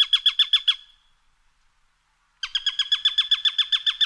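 A bird calling in two fast runs of short notes, about ten a second, each note dropping slightly in pitch. The first run stops just under a second in, and the second begins about two and a half seconds in.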